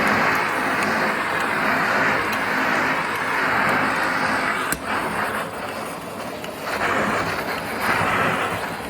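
1942 Electrolux Z36 vacuum cleaner running, a steady rushing whir of air and motor that swells and dips a little, with a sharp click about halfway through. It stops abruptly at the very end.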